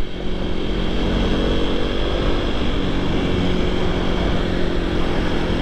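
Motorcycle engine running under way, its note steady with a slight rise in pitch about two seconds in, over low wind rumble on the microphone.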